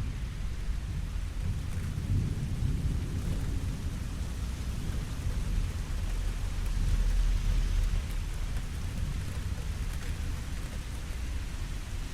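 Steady rainfall, with a low rumble underneath that swells about two seconds in and again around the middle.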